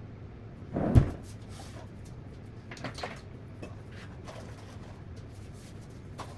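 Household handling noises sped up to double speed: a short rustle and then one loud thump about a second in, followed by a few lighter knocks and clicks, like things being set down or a cupboard being shut.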